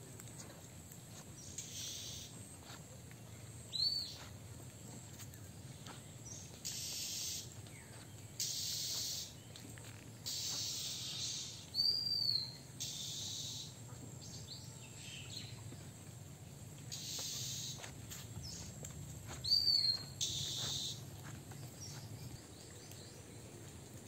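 Birds calling: three short, high arching chirps and several harsh, hissing calls about a second long, over a faint, steady low rumble.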